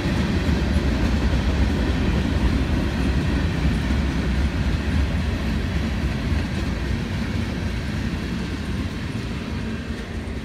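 Norfolk Southern manifest freight train's covered hopper cars rolling past on the rails, a steady low rumble of wheels on track. It fades over the last few seconds as the end of the train passes and draws away.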